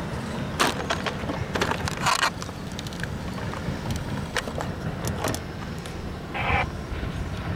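Amtrak bilevel passenger train rolling past with a steady low rumble. Sharp clicks come at irregular moments, and there is a short rasp near the end.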